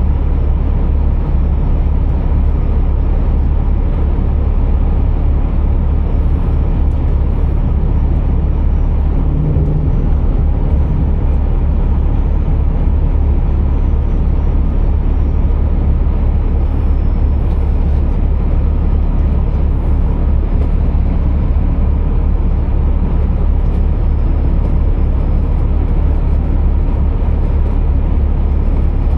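Scania R480 truck's six-cylinder diesel running, a loud, steady low rumble with no change in pace.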